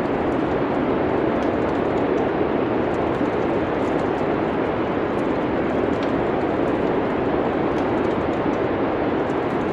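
Steady, even rushing of wind in a winter ambience, with faint scattered crackles of a wood fire.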